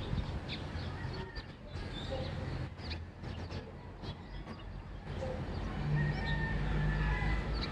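Birds chirping in short, scattered calls over a low background rumble of morning neighborhood ambience; a low steady hum comes in about six seconds in.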